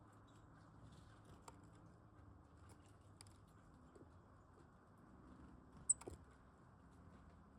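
Faint scattered clicks and taps of small birds pecking at seed on a feeder, with one sharper click about six seconds in, over a low steady background hum.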